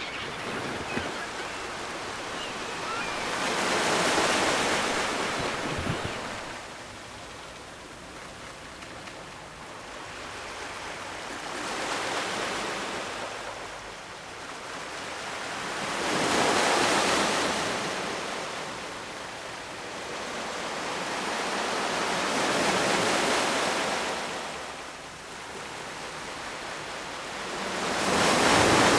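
Ocean waves breaking on the shore, the surf swelling and fading in a slow rhythm, a wave about every five or six seconds.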